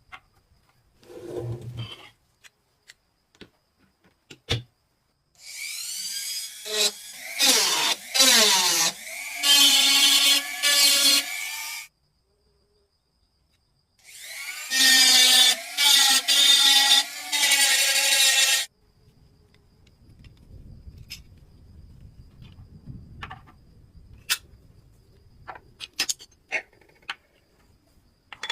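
A small electric power tool, drill-like, run in two long bursts of about six and about four and a half seconds. It spins up with a rising whine at the start of the first burst and dips briefly several times while running. Light clicks and taps of handling come before, between and after the bursts.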